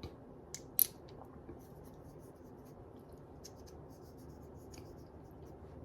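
Light rubbing and small handling clicks from a rub-on perfume being handled and applied, with one sharp click about a second in.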